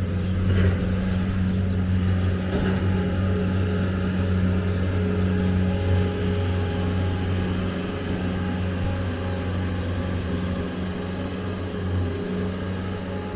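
Steady low mechanical hum of a running motor, even in pitch and level throughout.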